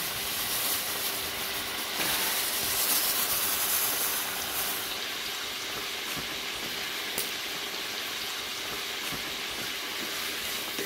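Meat and sliced onion sizzling steadily in hot cottonseed oil in a cast-iron kazan over a high wood fire, the meat browning. The sizzle grows louder about two seconds in and stays up for a few seconds.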